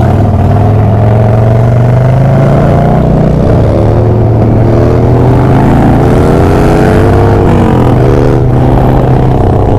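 Harley-Davidson Dyna's V-twin engine pulling away and accelerating through the gears: a steady low note at first, then from about a third of the way in the pitch climbs, drops at each shift and climbs again several times.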